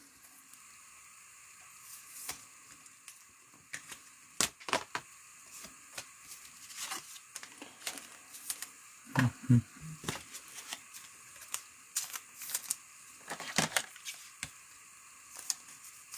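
Trading cards being handled and flipped through, with irregular soft clicks and rustling.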